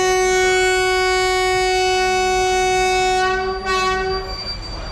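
A locomotive horn sounding one long steady blast that dies away about four seconds in, over the low rumble of the moving train.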